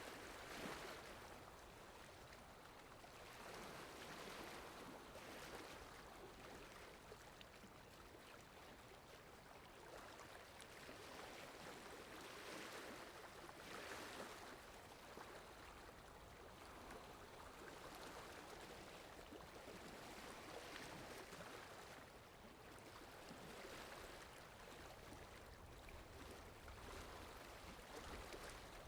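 Added water sound-effect track: low, steady rushing of flowing water that swells and ebbs every couple of seconds.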